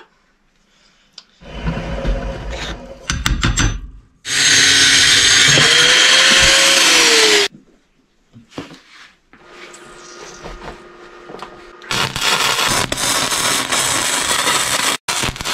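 Power tools working steel pipe, in three short loud spells separated by quieter gaps, the middle one the loudest.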